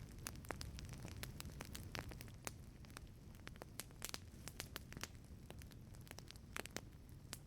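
Wood fire crackling in a wood-fired pizza oven: frequent, irregular sharp pops and snaps over a low, steady rumble of burning.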